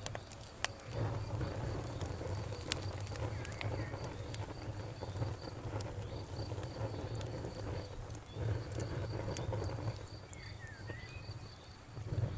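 Campfire crackling, with scattered sharp pops over a low steady rumble, while a cricket chirps in a fast, even pulse.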